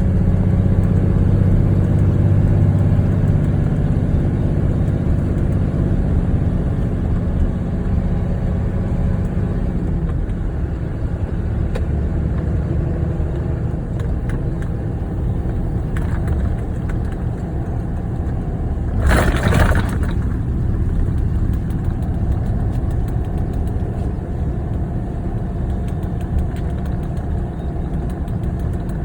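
Steady low rumble of a car's engine and tyres heard while driving, heavier for the first ten seconds or so. About nineteen seconds in, a brief louder whoosh lasts about a second.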